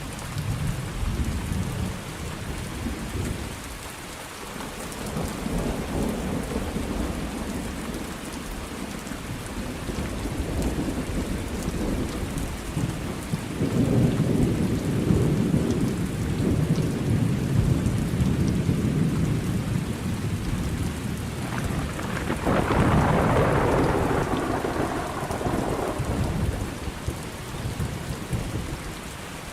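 Steady rain with rolling thunder that rumbles in several long swells. The loudest low rumble comes near the middle, and a brighter, sharper peal follows about 22 seconds in. The thunder falls away right at the end, leaving only the rain.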